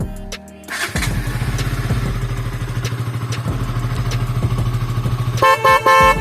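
KTM Duke 200's single-cylinder engine comes in about a second in and runs at a steady idle. Near the end the motorcycle's horn gives two short beeps over the idling engine.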